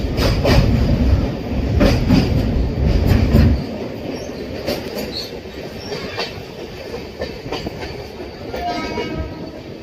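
Moving train: heavy rumble and clatter of the wheels over the rails, with repeated knocks, that drops off suddenly about three and a half seconds in to a lighter clatter with scattered clicks.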